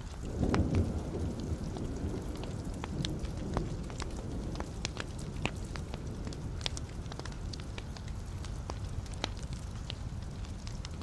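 Wood fire burning in a fireplace: a steady low rush of flame with scattered sharp crackles and pops. About half a second in, the low rush swells louder, then settles over the next few seconds.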